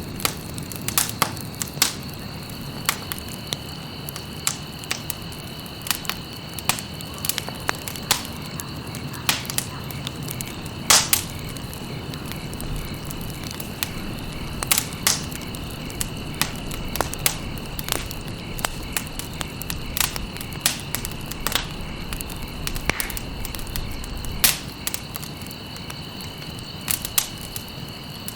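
Campfire burning, with irregular sharp crackles and pops over a low steady rush of flame. A steady high-pitched tone runs underneath.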